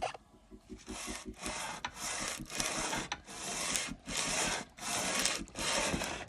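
Cylinder head being pushed back and forth over 120-grit sandpaper on a flat tile to resurface its gasket face: a rhythmic scraping rasp, about one and a half strokes a second.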